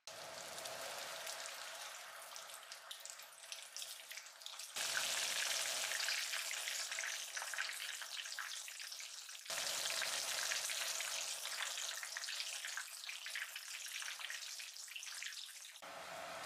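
Coated shrimp frying in oil in a frying pan under a mesh splatter screen: a steady, dense sizzle, with abrupt jumps in level a few times.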